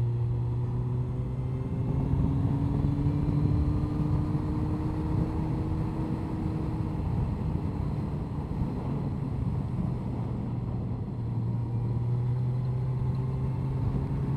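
Honda CBR1100XX Blackbird's inline-four engine running under way at a steady cruise, its pitch creeping up over the first several seconds and then settling, over a steady rush of wind and road noise.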